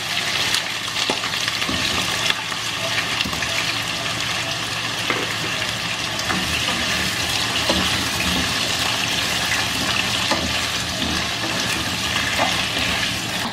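Potato chunks sizzling steadily as they fry in hot oil in a nonstick wok, with a spatula turning them and making a few light scrapes and clicks.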